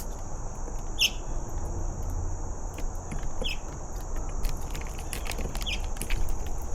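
A bird giving short, downward-sliding chirps every couple of seconds over a steady, high-pitched drone of insects. A run of light clicks comes in the second half, and a low rumble runs underneath.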